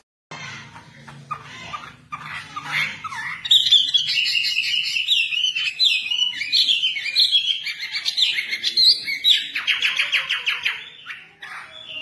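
Wambi songbird singing vigorously: soft chirps at first, then a loud, fast run of varied chirps and whistles, ending in a rapid buzzy rattle a little before the song fades.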